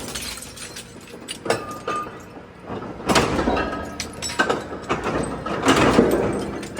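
Heavy-duty engine block shredder crushing engine blocks: irregular sharp cracks, clanks and grinding as the metal breaks between the cutters. It is quieter for the first few seconds, then louder cracking sets in.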